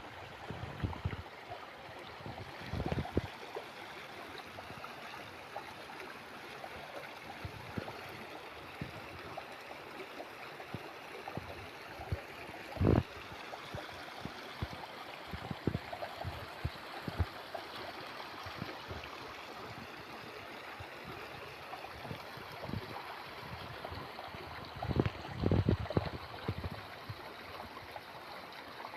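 A stream flowing steadily with a gurgling rush of water. A few low thumps rise above it: one a few seconds in, a sharp one about halfway, and a cluster near the end.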